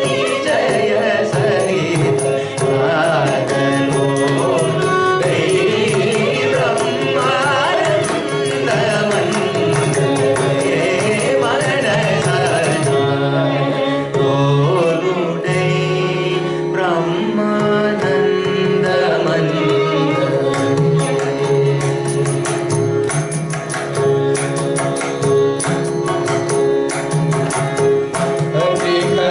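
Carnatic classical music: voice singing gliding, ornamented melody with violin accompaniment, over a mridangam's steady stream of drum strokes.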